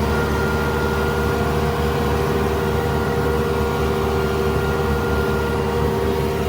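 A tractor running steadily while pulling a batwing rotary mower: a constant drone at unchanging pitch, with a low hum and a few held higher tones.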